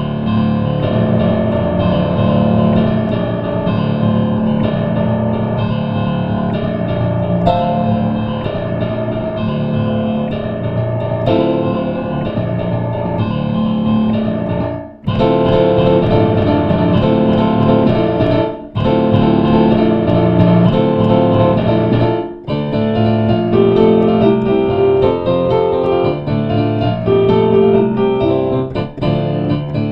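Piano playing a busy, fast-moving piece, with three short breaks in the middle.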